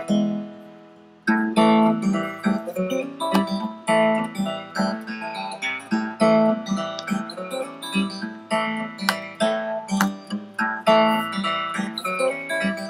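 Background music played on acoustic guitar, plucked and strummed. A chord rings and fades away over the first second before the playing picks up again.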